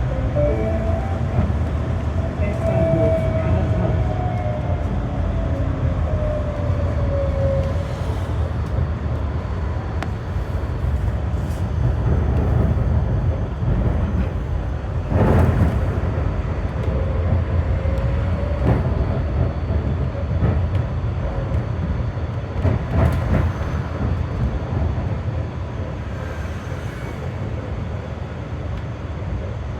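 Berlin GT6N-type low-floor tram (GTZO) running, heard from aboard: a steady rumble of wheels on rail, with the traction drive's whine rising and falling in the first several seconds. Two sharp clatters come about halfway through and again about three-quarters through.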